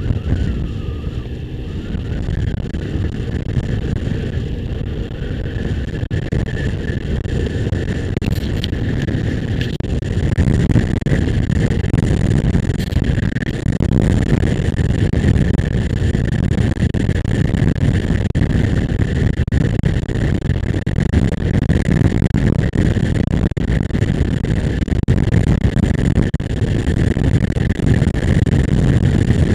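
Motorcycle under way: engine rumble mixed with wind rush, getting louder about ten seconds in and then holding steady.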